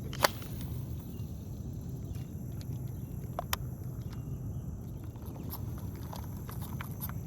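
Fishing reel being cast and reeled in, with a sharp click just after the start, another click a little past the middle, and light scattered ticks over a steady low rumble.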